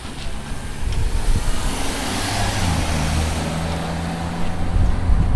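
A motor vehicle driving past: a steady low engine note with road and tyre noise that swells about halfway through and then fades.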